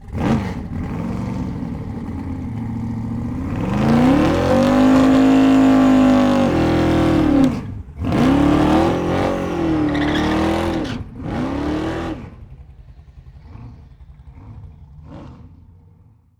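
Car engine revving: the pitch climbs and holds high, drops off, then climbs twice more. It then settles to a low idle with a few small throttle blips and fades out.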